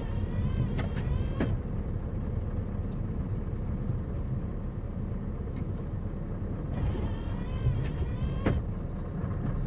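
Scania R560 truck's V8 diesel engine running steadily at low revs. Twice, once at the start and again about seven seconds in, a higher squealing hiss lasts about a second and a half and ends in a sharp click.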